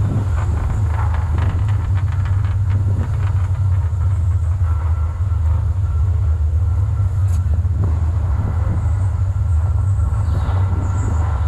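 Steady loud low rumble of a moving vehicle, with a faint steady whine above it.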